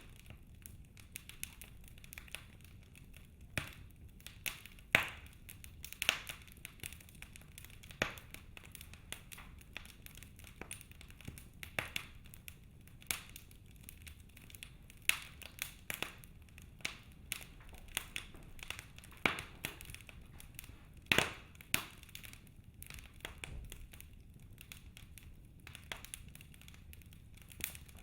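Logs burning in a fireplace, crackling with irregular sharp pops and snaps over a soft steady hiss.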